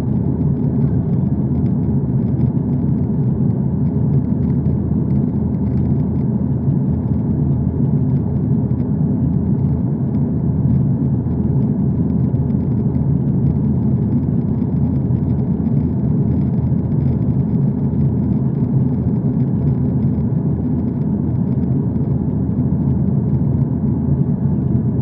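Steady low drone of an aeroplane, with an even rumble that does not change in pitch or level.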